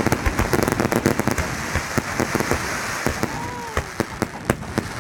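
Fireworks crackling and popping in a dense, rapid stream of small bangs, thinning after about three seconds into sparser, sharper pops.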